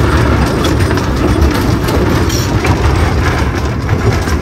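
Narrow-gauge tourist train in motion, heard from inside its open wooden carriage: a steady low rumble with irregular clicks and rattles from the wheels and carriage.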